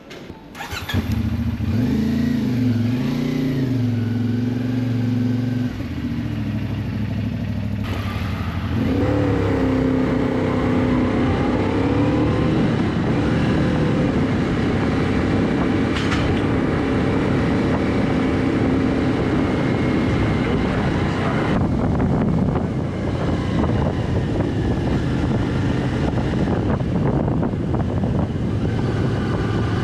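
Motorcycle engine starting about a second in, idling with a couple of short revs, then pulling away about nine seconds in and running steadily at low road speed.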